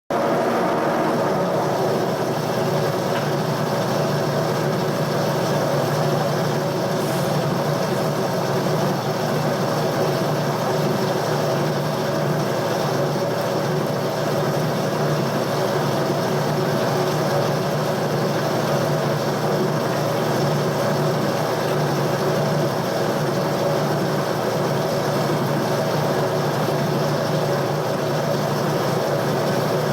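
Boring machine running steadily while boring out a worn pivot hole to square it and fit a larger pin, its motor and gearing making a constant hum with a few steady tones.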